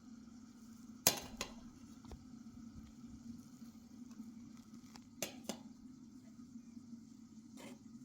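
Kitchenware clinking: two sharp clinks about a second in, two more about five seconds in and one near the end, over a steady low hum.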